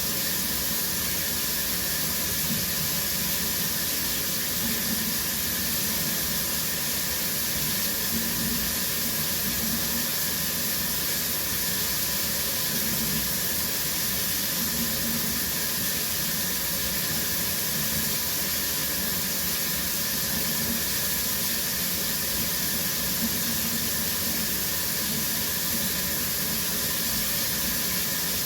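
Shower running steadily, its spray drumming down as a constant hiss with a low rumble underneath.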